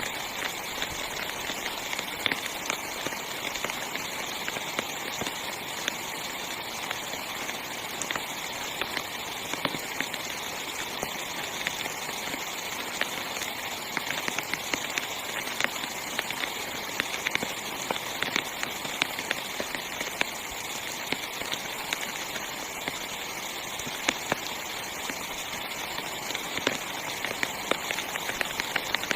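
Heavy rain pattering on a small tent's fabric: a steady dense hiss with many sharp individual drop hits.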